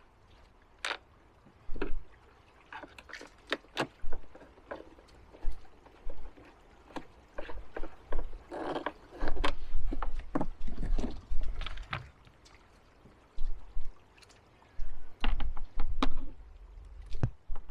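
Irregular clicks, taps and knocks of hands fitting the plastic covers back onto a Honda EU2200i inverter generator, with bursts of low rumble from the handling.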